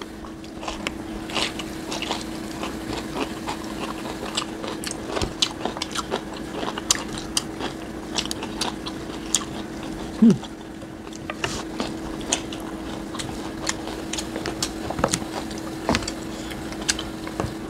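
Close-miked eating sounds: people chewing and biting food, with many small mouth clicks and smacks over a steady low hum. A short, louder voice sound comes about ten seconds in.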